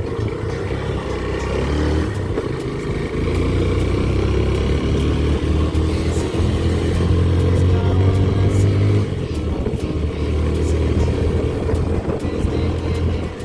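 Motorcycle engine running on the move, its pitch rising and falling as it speeds up and slows, under heavy low wind rumble.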